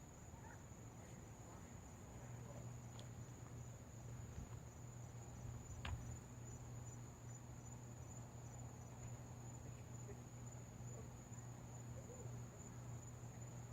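Crickets trilling steadily on one high, even note, faint, with a low steady hum underneath and a single sharp click about six seconds in.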